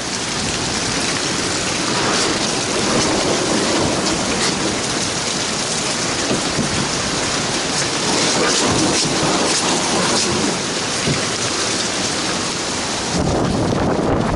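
Heavy hurricane rain and wind: a steady, loud wash of noise, getting deeper and heavier about thirteen seconds in.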